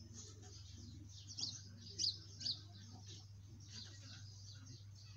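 Small birds chirping in short high calls, with three louder chirps about one and a half to two and a half seconds in, over a steady low hum.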